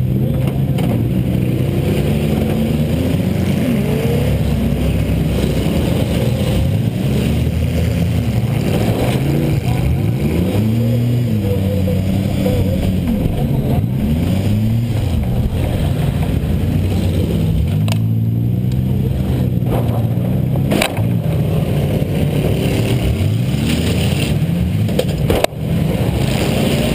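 A Buick 3800 V6 heard from inside the car, revving up and down hard as it accelerates and backs off, with a few sharp bangs along the way.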